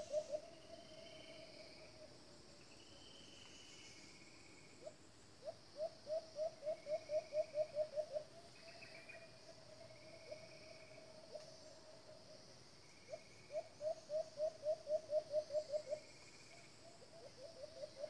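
A caged decoy bird calling: runs of low, rapid hoots, about four a second, that swell in loudness, each trailing into a held low note. The runs come near the start, about five seconds in, about thirteen seconds in and again at the end. Faint higher chirps and a steady insect hiss run underneath.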